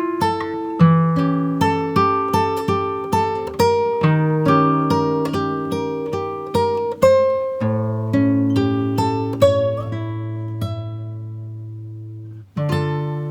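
Background music on acoustic guitar: single notes picked in an even, gentle rhythm. Partway through, a low chord is left to ring and fade for several seconds, and the picking starts again just before the end.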